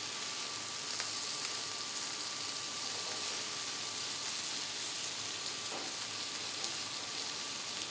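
Chicken wings sizzling steadily on a hot flat-top griddle while two metal spatulas turn them, with a few light scraping clicks.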